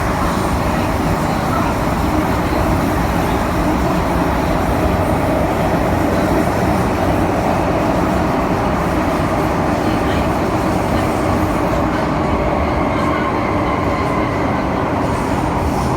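MTR M-Train electric multiple unit running between stations, heard from inside the passenger car as a steady rumble of wheels, motors and track noise.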